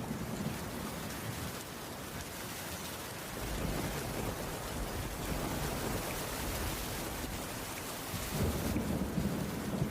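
Heavy rain falling steadily on a wooden cabin roof, an even hiss, with a low rumble that swells at the start and again shortly before the end.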